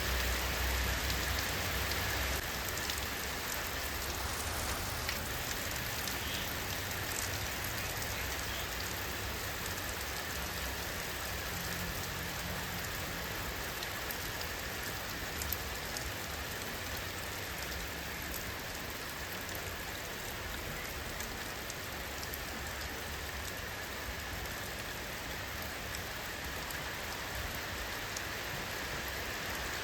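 Steady rainfall, an even wash of noise speckled with countless fine drop ticks.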